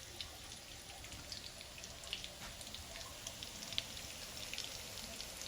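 Fish fritters frying in hot oil: a low sizzle with scattered small crackles and pops.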